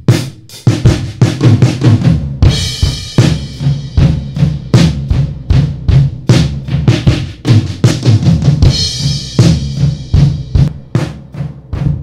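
A drum kit recording plays a steady beat of kick, snare and hi-hat, as a demonstration of a Pultec tube equaliser. A cymbal crash rings out about two and a half seconds in and again near nine seconds.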